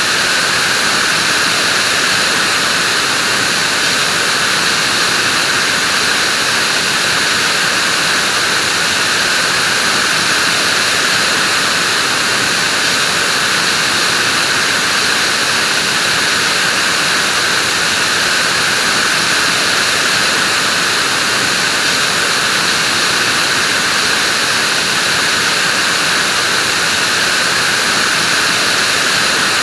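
Vacuum cleaner running steadily: an even, unchanging hiss, strongest in the upper-middle pitches, with no starts, stops or changes in level.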